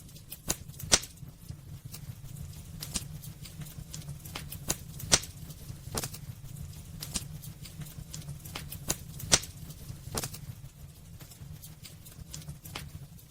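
Wood fire burning in a fireplace: irregular sharp crackles and pops of burning logs, a few louder snaps among them, over a steady low rumble.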